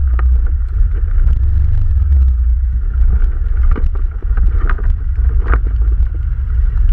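ATV engine running with a heavy, uneven rumble, with wind buffeting the microphone and a few short knocks and rattles about a second in and between about four and six seconds in.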